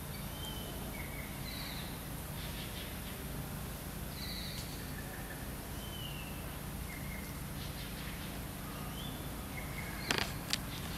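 Forest ambience: short whistled bird calls, some sliding down in pitch, come every second or two over a steady high hiss. A few sharp clicks stand out near the end.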